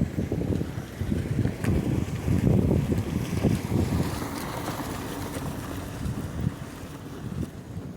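Wind buffeting the microphone in irregular low gusts, strongest a couple of seconds in and easing toward the end.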